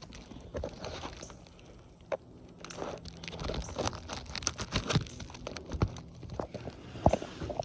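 Hands-on work on asphalt shingles: irregular crunching, scraping and crackling, with scattered sharp knocks, the loudest about seven seconds in.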